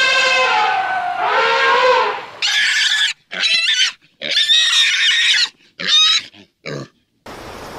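An elephant's trumpet call trails off and falls in pitch in the first two seconds. Then a pig gives about five short, high-pitched squeals with brief silences between them.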